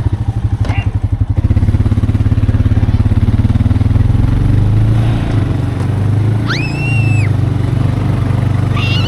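Four-wheeler engine running steadily with a low, pulsing note. About seven seconds in comes a brief high-pitched squeal.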